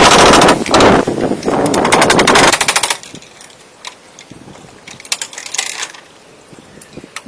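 A power tool cutting into hardwood with a loud, fast rattling chatter that stops about three seconds in. Scattered light clicks and knocks follow.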